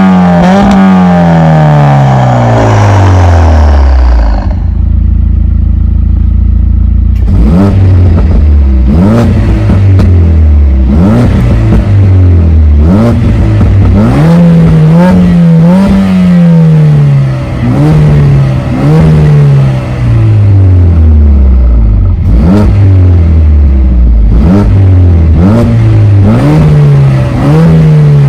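Stage 2-tuned Mercedes-AMG A45 S's turbocharged 2.0-litre four-cylinder being revved: the revs fall to idle about four seconds in, then from about seven seconds in it is blipped again and again, each rev rising and dropping back. The exhaust pops and crackles as the revs drop.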